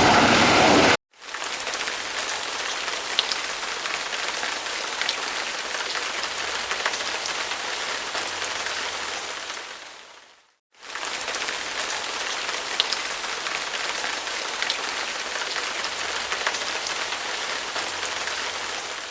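Steady, rain-like hiss of spraying water. A louder rush cuts off sharply about a second in, and the rest comes as two stretches of even hiss, each fading in and out, split by a short silence about halfway through.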